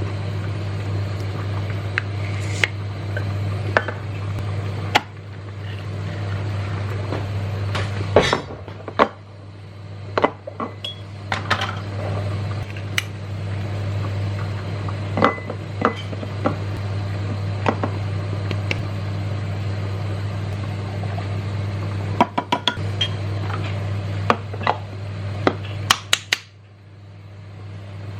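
Kitchen clatter: dishes and utensils clinking and knocking at irregular intervals over a steady low hum.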